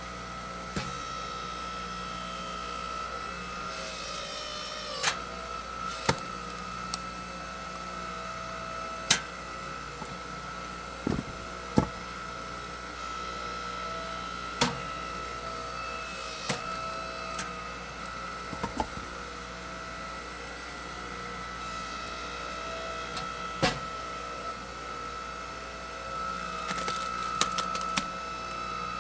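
Engine-driven hydraulic log splitter running steadily, with sharp cracks and knocks of wood splitting and logs being handled, about a dozen times at uneven intervals.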